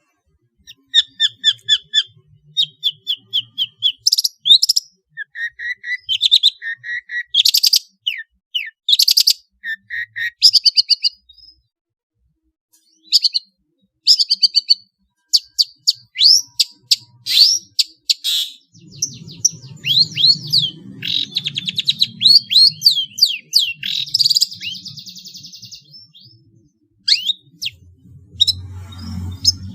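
Songbird song in quick runs of repeated high chirps and short whistled trills, broken by brief pauses: a long-tailed shrike's mimicking song mixed with small birds' calls. From about two-thirds of the way in, a low hum sits under the calls, and there is a denser buzzy chatter for a few seconds.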